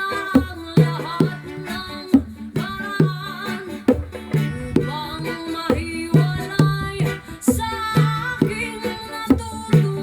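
Bongos played in a steady rhythm along with a song, the low drum strokes ringing with a short pitched tone under a sung vocal line.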